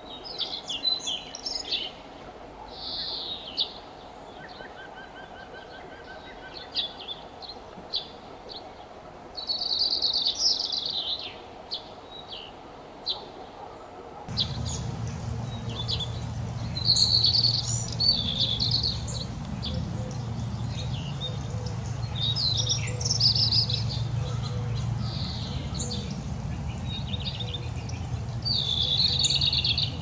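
Small birds chirping and calling in short bursts and brief trills, on and off throughout. About halfway through, a steady low hum comes in underneath the calls.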